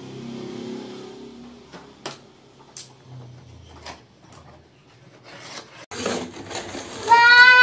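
Packaging and parts being handled and rubbed, with a few sharp clicks and knocks. Near the end, after a cut, a child starts singing one long held note.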